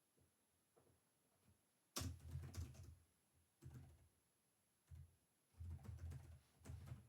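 Typing on a computer keyboard in short bursts of rapid keystrokes with pauses between them, after a couple of seconds of only a few faint taps.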